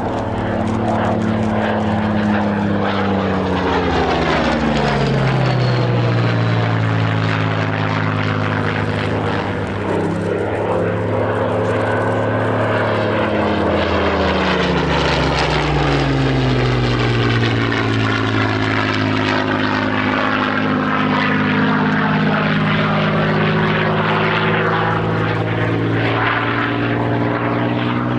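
Propeller aircraft flying past at an air display, its engine drone falling in pitch as it passes, twice.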